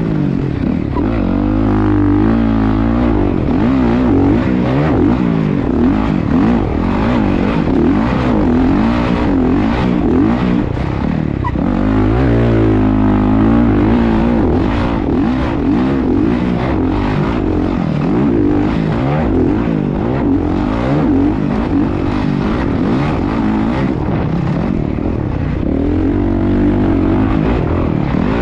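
Motocross dirt bike engine being ridden hard, its pitch rising and falling over and over as the rider goes through the throttle and gears.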